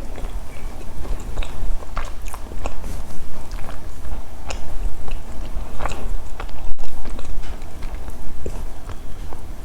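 Close-up biting and chewing of chocolate snacks, with many short crisp clicks at irregular intervals. A steady low hum runs underneath.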